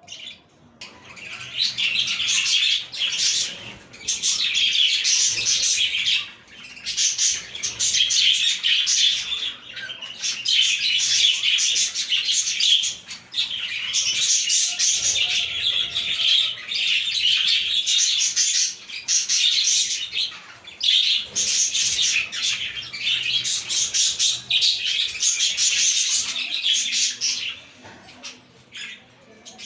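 Budgerigars singing and chirping together, a dense high chatter in bouts of a few seconds with short breaks, dying away near the end.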